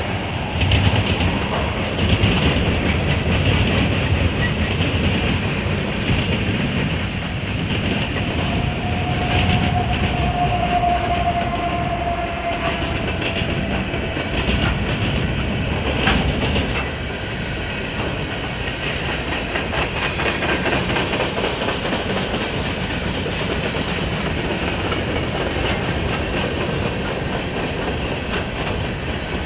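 Freight train cars rolling past with a steady rumble and clickety-clack of wheels over rail joints. A faint whining tone rises out of the rumble for a few seconds, starting about eight seconds in.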